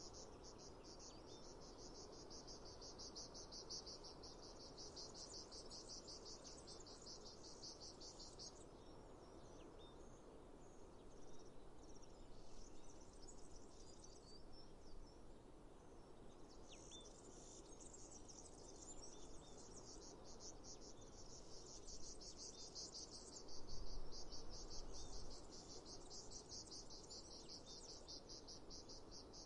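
Insects chirping in a fast, even pulsing trill that breaks off for several seconds in the middle, with a few scattered chirps in the gap. A brief low rumble comes about three quarters of the way through.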